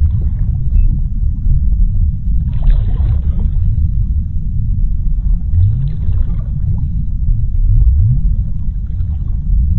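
Underwater sea ambience: a deep, steady rumble with short low rising swells, and two bursts of bubbling about three and six seconds in.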